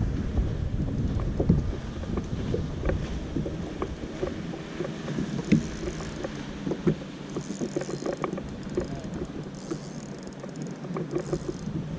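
Wind rumbling on the microphone and water lapping against a small fishing boat's hull, with scattered light knocks and ticks. The low rumble eases off after about four seconds.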